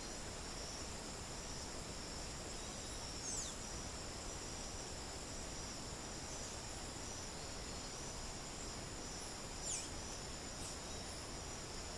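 Steady high-pitched insect chorus trilling without pause over an even hiss, with a bird giving a quick high whistle that slides downward, twice: about three seconds in and again near ten seconds.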